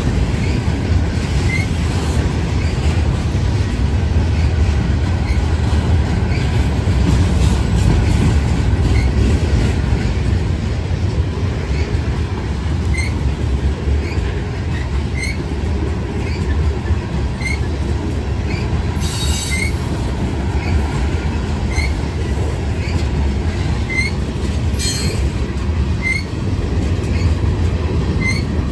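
Freight train cars (coil cars and covered hoppers) rolling past: a steady low rumble and clatter of steel wheels on the rails, with two brief high wheel squeals in the last third.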